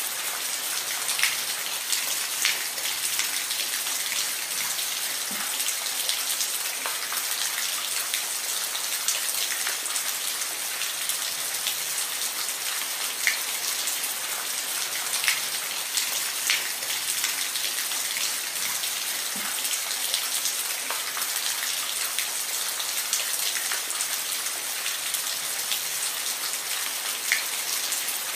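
Steady rain falling, an even hiss with scattered louder drops ticking now and then.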